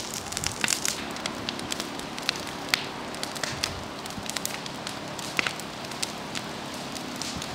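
Large campfire of dry shrubs and branches burning: a steady hiss of flames with many scattered sharp crackles and pops from the burning wood.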